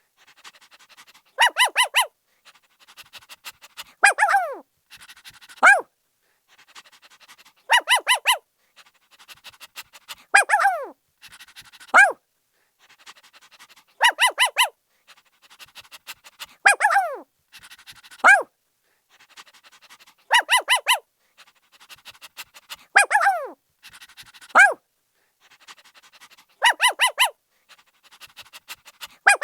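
Puppy barking: a quick run of four or five high yaps, then a yelp that falls in pitch and one more short bark. The same sequence repeats about every six seconds.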